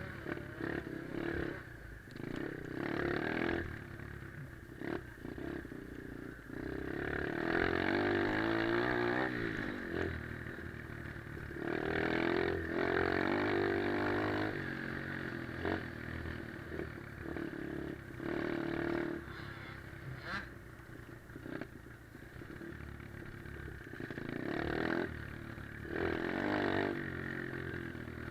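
Pit bike's small single-cylinder four-stroke engine revving up in several surges and dropping back between them, with short knocks and rattles in between.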